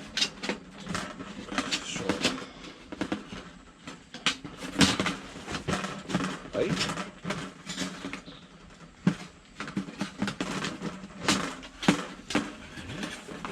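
Thin metal plates of a compact folding fire stand being fitted and bent into place by hand, giving irregular clicks, taps and clinks.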